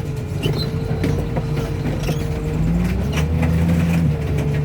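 Car crusher's diesel engine and hydraulic pump running, a steady hum with a whine over it. Both rise in pitch about three seconds in as the hydraulics take load, with scattered metal clicks and creaks.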